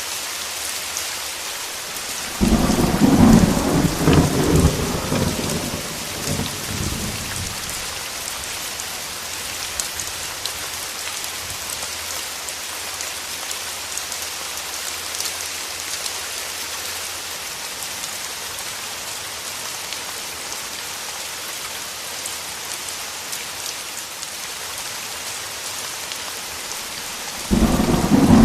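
Thunderstorm: steady heavy rain hissing throughout, with a clap of thunder a couple of seconds in that rumbles for about four seconds and dies away. A second thunderclap breaks in just before the end.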